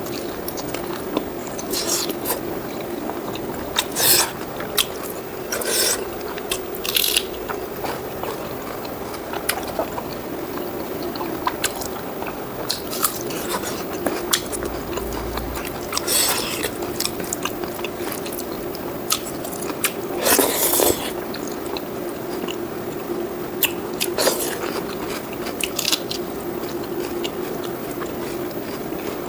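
Close-miked eating: mouthfuls of fried pork and rice chewed and bitten, with frequent short crunches and clicks and a few louder bites.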